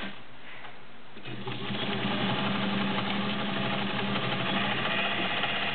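Vintage all-metal White 3954 sewing machine and its 1.3 amp motor stitching a cam-driven pattern stitch. It picks up speed about a second in and then runs steadily at a fast, even stitch rate.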